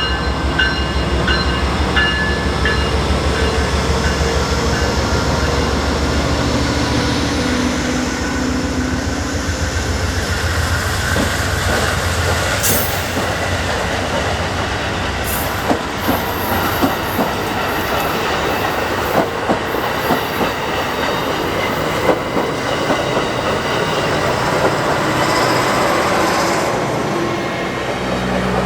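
A diesel train passing close by. The locomotive's engine rumble leads for the first dozen seconds or so, then the cars roll past with wheels clacking over rail joints and brief high squeals.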